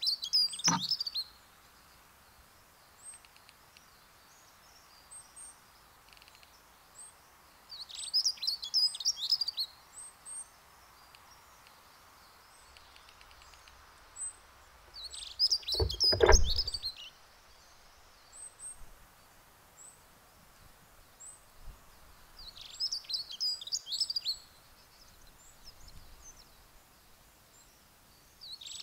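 A songbird repeats a short, fast, high song phrase about every seven seconds, five times in all. A thump close to the microphone comes about sixteen seconds in and is the loudest sound; a lighter one comes just after the start.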